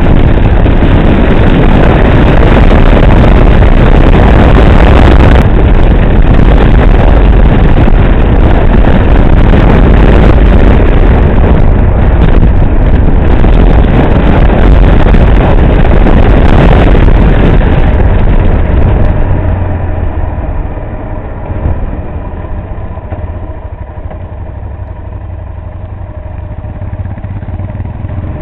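Adventure motorcycle being ridden, its engine under heavy wind noise on the microphone; about two-thirds of the way through it slows, the wind drops away, and a steady low-speed engine note is left.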